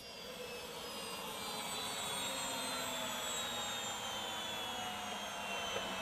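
The MTT Turbine Superbike's Rolls-Royce Allison 250-C18 gas turbine whines, the pitch falling slowly and steadily as the turbine spools down.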